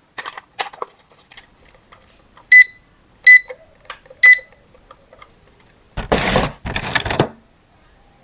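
Three short, loud electronic beeps about a second apart from a battery-powered RC toy, with small handling clicks around them. Near the end come two half-second bursts of rustling noise.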